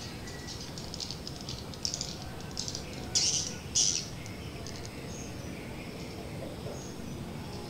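Small birds chirping in quick twittering bursts, the loudest two about three seconds in, then only a few short high calls, over steady low background noise.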